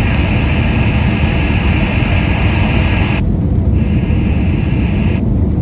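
Steady low rumble of an airliner cabin on approach, mixed with the hiss of an open air-traffic-control radio channel. The hiss drops out briefly about three seconds in and again near the end.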